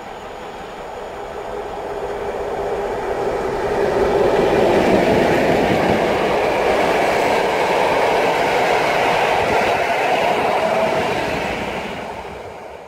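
Passenger train passing through the station without stopping. Its rumble and wheel noise build as it approaches, stay steady while the coaches go by, and fade away near the end.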